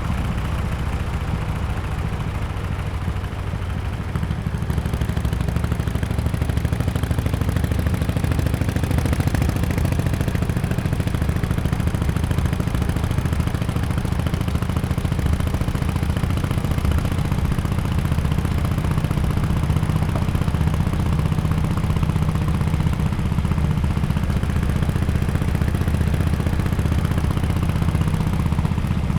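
Harley-Davidson XL1200X Forty-Eight's air-cooled V-twin running steadily through an aftermarket exhaust, a deep even exhaust note with a slight dip in level a few seconds in.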